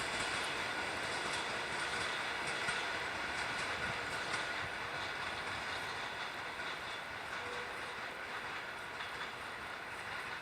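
A passenger train rolling past on the rails, its wheels making a steady rolling noise with faint clicks. The sound slowly fades.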